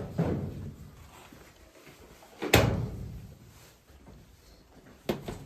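Locker doors being opened and shut: a sharp bang about two and a half seconds in is the loudest, with a shorter knock near the end.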